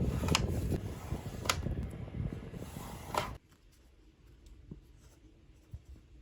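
A small machine's mechanism running with a dense rumble and a few sharp clicks, stopping abruptly about three and a half seconds in. After that there are only a few faint ticks.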